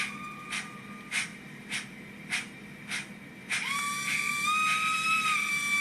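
Sound-fitted Rapido model of the steam locomotive Lion playing recorded steam sounds through its small onboard speaker. Slow, even exhaust chuffs come about one every 0.6 s, and a long steam whistle blast starts about three and a half seconds in, its pitch stepping up slightly partway through.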